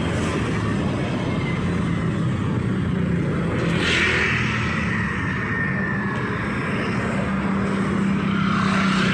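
Street traffic: engines running steadily, with a vehicle passing about four seconds in, its pitch falling as it goes by, and another approaching near the end.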